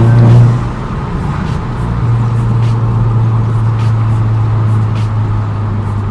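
Mk2 Audi TT's turbocharged 2.0 TFSI four-cylinder under way, with the exhaust's centre resonator cut out. The revs peak about half a second in and drop away, then the engine settles into a steady low drone, heard from inside the cabin.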